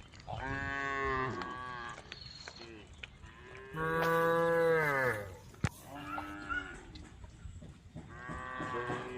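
Cows mooing in turn: four long calls from more than one animal, the loudest about four seconds in. A single sharp click comes just after the loudest call.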